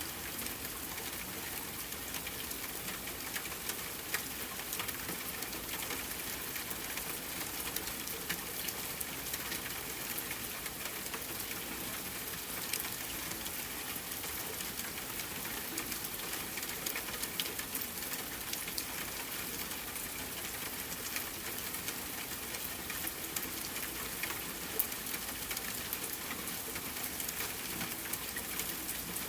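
Soft rain pattering steadily on a window, mixed with a fireplace crackling, with small pops scattered throughout and two louder ones a few seconds in and near the end.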